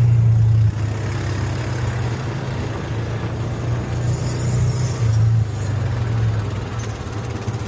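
UTV buggy engine running with a steady low drone, louder briefly at the start and again about five seconds in.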